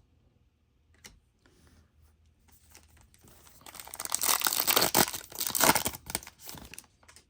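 Trading-card pack wrapper being torn open and crinkled: a dense crackling tear lasting about three seconds, starting past the middle, after a soft click about a second in.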